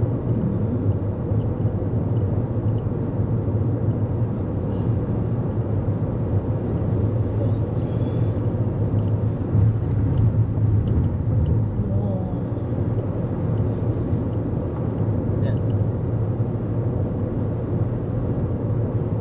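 Toyota Corolla Cross cruising at highway speed: steady road and tyre noise with a low engine hum, unchanging throughout.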